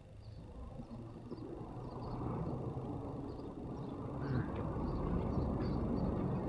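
A road vehicle's engine and tyre noise, a low rumble growing steadily louder as it approaches.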